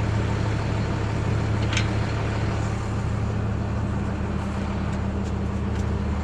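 Vehicle engine running steadily at constant speed, a low even hum, with a brief sharp click about two seconds in.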